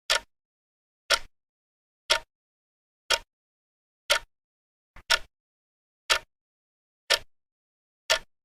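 A clock-tick sound effect: one short, sharp tick each second with dead silence between.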